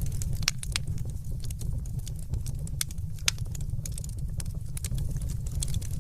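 Wood fire crackling: irregular sharp pops and snaps over a steady low rumble of the flames, with the loudest pop about three seconds in.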